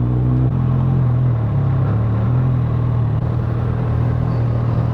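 Suzuki GSX650F motorcycle's inline-four engine running steadily, its note shifting slightly about half a second in and wavering a little after.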